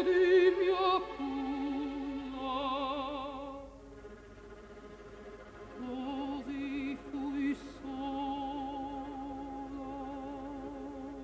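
Operatic voice singing long notes with wide vibrato, stepping down to a lower held note about a second in, softening around four seconds, then swelling into another long held note.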